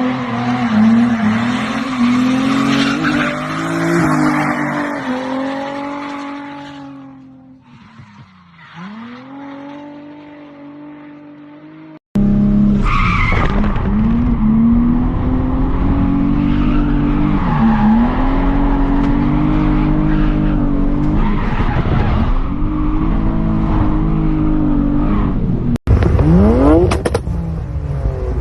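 Car engines revving up and down hard while the tyres squeal and skid, as in drifting or burnouts. The audio cuts abruptly twice to another car. Near the end an engine winds up sharply in pitch.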